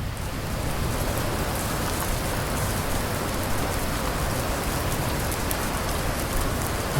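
Steady rain falling on a surface, with many individual drops ticking close by and a low rumble underneath.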